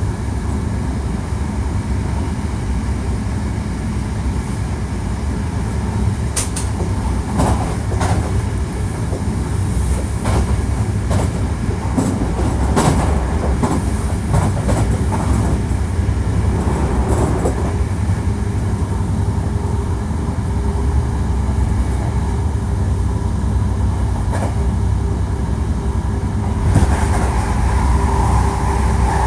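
Interior running sound of a Hankyu 1300 series electric train with Toyo IGBT inverter drive: a steady low rumble of wheels on rail, with scattered sharp clicks over rail joints and points. A faint steady tone comes in during the last third.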